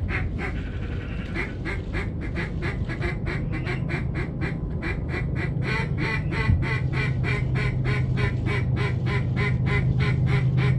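Duck quacks in a fast, even run, about four or five a second, over a steady low hum.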